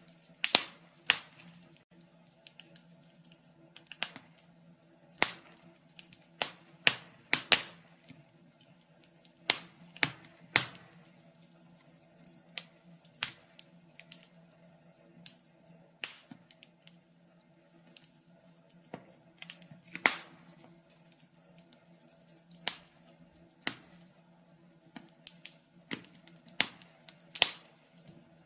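Logs burning in a fireplace, crackling with irregular sharp pops and snaps, a few of them much louder, over a faint steady hum.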